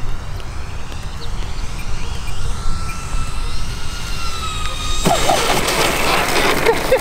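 Electric motors and propellers of a four-motor RC C-130 Hercules model whining on a landing approach, the pitch rising and then falling slightly. Wind rumbles on the microphone, and a louder rush of noise comes in about five seconds in.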